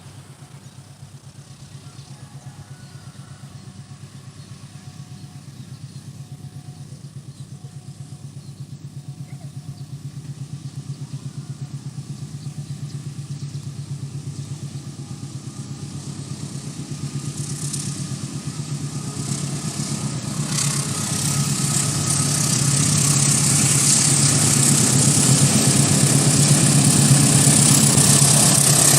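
An approaching train: a low, pulsing engine hum grows steadily louder. Rushing wheel and rail noise builds over the last third as it nears.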